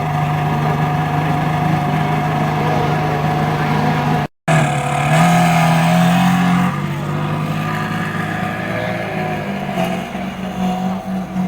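Ferrari Enzo's V12 engine running at a steady pitch. The sound cuts out for a split second a little over four seconds in, then the engine rises in pitch briefly before dropping back and wavering near the end.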